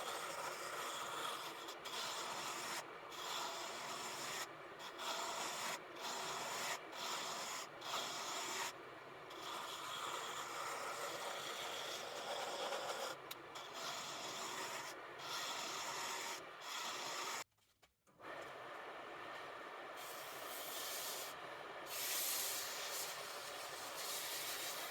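Rusty steel of an old adjustable spanner being rubbed down by hand with an abrasive, in repeated scraping strokes with short breaks. Near the end it drops out for a moment and returns as a steadier, hissier scrubbing.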